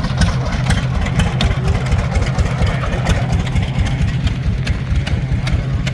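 An engine running steadily at idle with a rapid low chugging, and many sharp clicks scattered through it.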